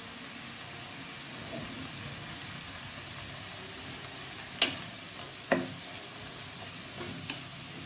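Chopped banana stem sizzling steadily in a hot non-stick kadai. About halfway through, a wooden spatula knocks sharply on the pan twice, then taps lightly a few times near the end as it stirs.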